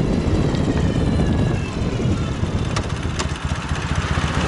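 Ural 750 motorcycle's flat-twin engine running with a steady low throb, which eases off somewhat in the middle and picks up again near the end. Two sharp clicks half a second apart come about three seconds in.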